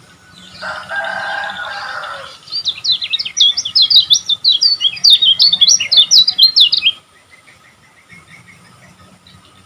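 Kecial kuning, a white-eye songbird, singing. A harsh lower buzz about half a second in gives way to a fast, loud run of high sweeping chirps lasting about four seconds, which stops abruptly about seven seconds in.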